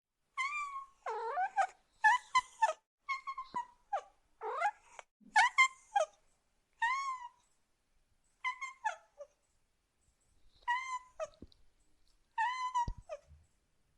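Domestic cat meowing over and over: a run of short, high-pitched meows, some in quick pairs, with brief pauses between.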